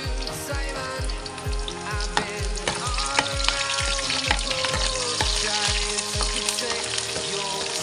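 Chopped onion sizzling in hot oil in a frying pan, with a ladle scraping and clicking against the pan as it stirs. Background music with a steady beat plays along and its beat stops near the end.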